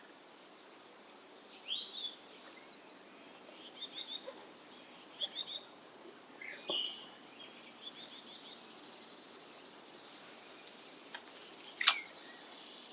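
Small birds chirping and trilling on and off over a steady hiss of background noise. A single sharp click comes near the end.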